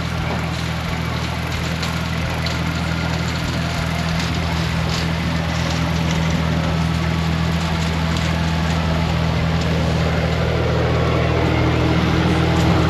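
Tractor engine running steadily under work, its sound growing slightly louder toward the end.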